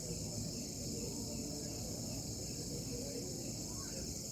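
Crickets chirping in a continuous high-pitched chorus, with faint short repeated chirps above a low background rumble.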